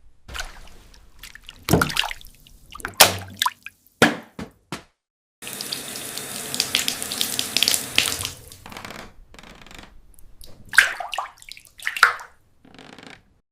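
Water splashing and running, in short abruptly cut segments, between sharp knocks and clattering.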